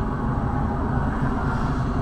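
A car driving, a steady low rumble of engine and road noise with no sudden events.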